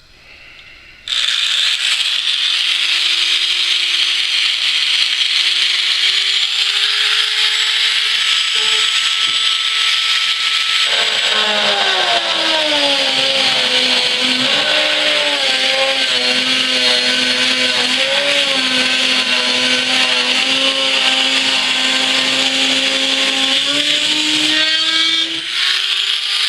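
Dremel rotary tool with a cutting wheel cutting through the aircraft's fuselage skin and former: it starts about a second in and runs steadily with a high whine. Its pitch drops about eleven seconds in as the wheel comes under load, and rises briefly near the end as the load eases.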